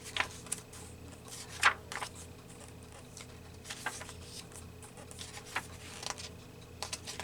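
Paper being handled on a table: scattered light rustles and soft taps, the sharpest about a second and a half in, over a faint steady hum.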